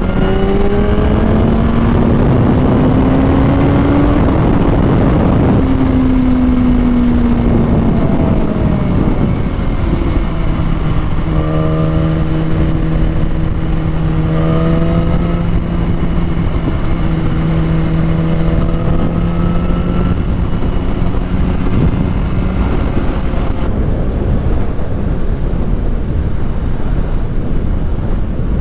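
Motorcycle engine under way: its pitch climbs over the first few seconds, drops back, then holds steady for about ten seconds before fading into the noise. Heavy wind noise rushes over the microphone.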